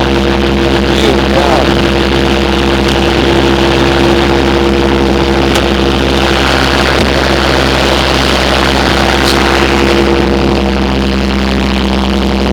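Bobcat S150 skid steer's diesel engine running at a steady speed, with a couple of brief ticks partway through.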